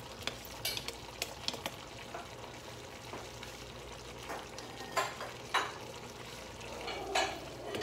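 Chicken pieces and pineapple chunks simmering and sizzling in sauce in a wok, with scattered sharp pops and clicks, a few near the start and more about five to seven seconds in.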